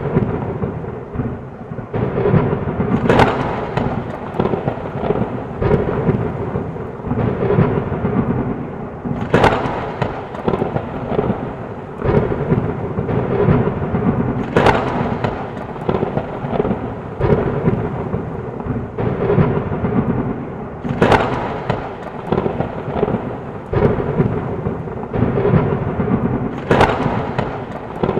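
Heavy rain pouring steadily through a thunderstorm, with five sharp thunder cracks about every five to six seconds and rolling rumble between them.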